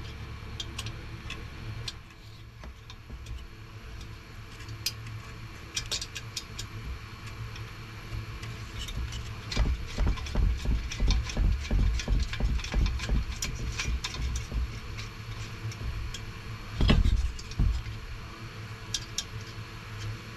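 Small clicks, taps and knocks of hand tools and metal parts being handled while a diesel heater is taken apart. A run of low thumps comes midway through, and one heavier thump follows a few seconds later.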